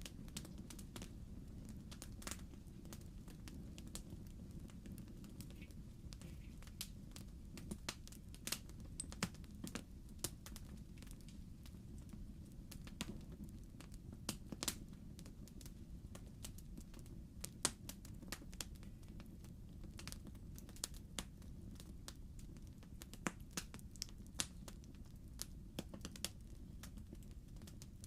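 Wood fire in a fireplace crackling: irregular sharp pops and snaps from the burning logs, several a second at times, over a steady low rumble of the flames.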